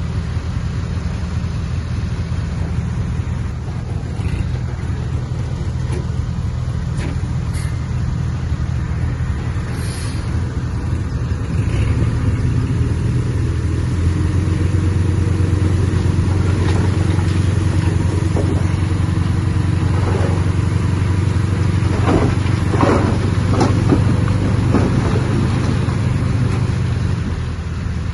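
Heavy diesel earthmoving machinery running steadily, growing louder about halfway through, with a few short knocks in the second half.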